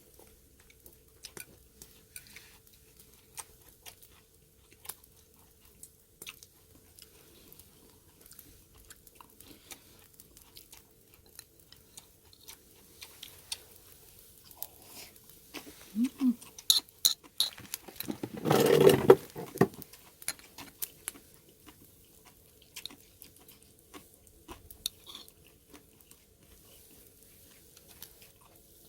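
People chewing and crunching food, with scattered small clicks of chopsticks and dishes. One louder noisy burst comes about nineteen seconds in.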